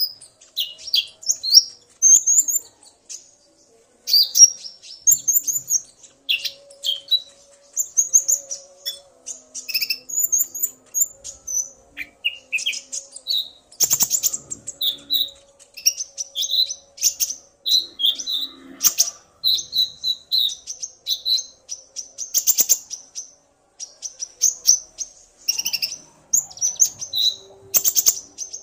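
Konin (kolibri ninja) sunbirds calling fast and continuously: rapid, high, thin chirps and short trills, the male singing hard in answer to a female's calls. A faint steady hum runs underneath.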